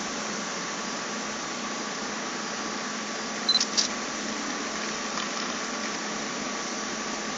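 Steady mechanical hum and hiss, with a brief beep and two or three sharp clicks about three and a half seconds in.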